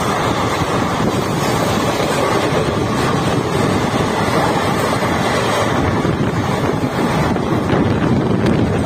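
Wind buffeting the microphone over the steady running noise of a passenger train at speed, heard from an open coach door. A passenger train passes close by on the next track.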